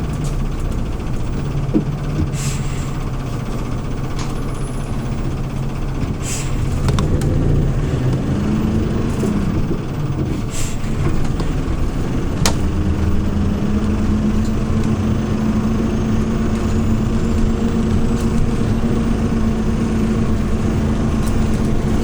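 Hyundai New Super Aero City CNG city bus engine running: at first a steady low hum, then the pitch shifts and it settles into a higher steady drone from about halfway as the bus pulls away. Three short hisses of compressed air sound in the first half.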